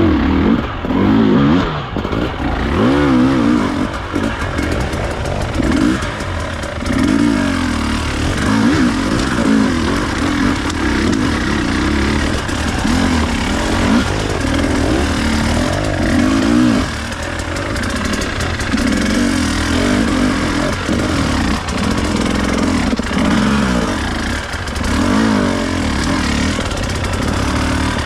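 Enduro dirt bike engine revving in repeated throttle bursts, the pitch rising and falling every second or two, as the bike works for grip on slippery ground.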